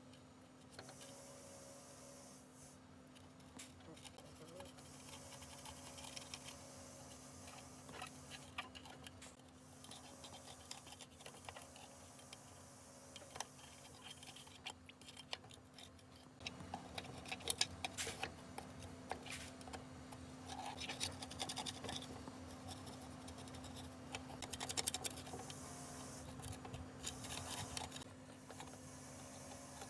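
Scratching and scraping of hand work on engine parts, with scattered light clicks and taps over a steady low hum. The clicking grows busier about halfway through.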